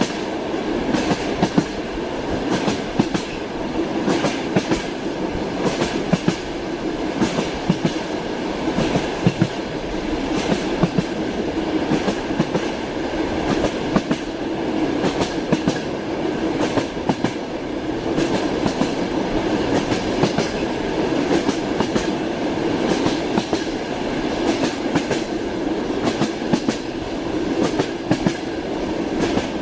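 Wheels of a moving train clacking over the rail joints, heard from inside a carriage over a steady running rumble, with frequent sharp, irregular clicks.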